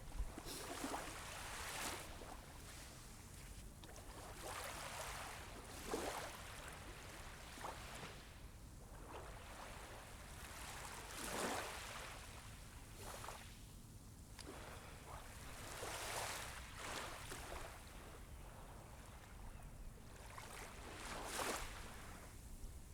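Small sea waves washing onto a sandy beach. Each soft swell rises and falls back every few seconds, about six times.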